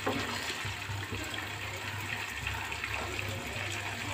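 Oil sizzling steadily around paneer cubes shallow-frying in a nonstick pan, with a wooden spatula scraping the pan as pieces are lifted out.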